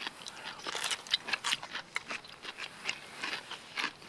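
Close-up eating sounds: irregular crunchy chewing and small clicks, in keeping with someone biting into crunchy cubed radish kimchi.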